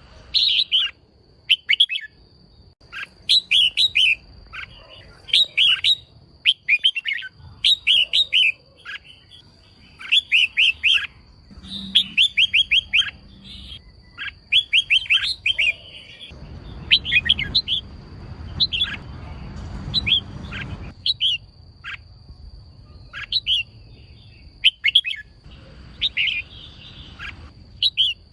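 Female red-whiskered bulbul calling: short bursts of quick, high chirping notes, repeated about every second. A faint steady high whine runs underneath.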